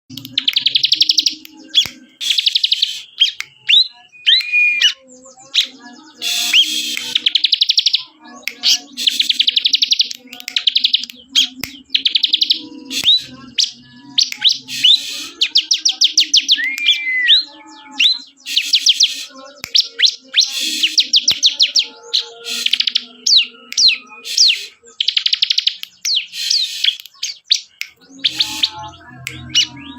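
Bar-winged prinia (ciblek) singing busily: rapid trills under a second long, repeated over and over with short gaps, mixed with a few brief whistled notes.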